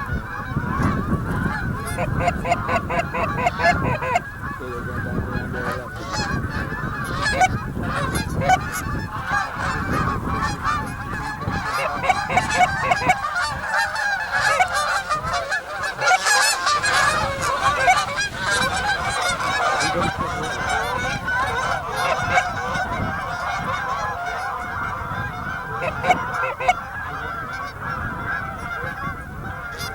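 A flock of geese honking, many calls overlapping continuously, with a low rumble under the first half.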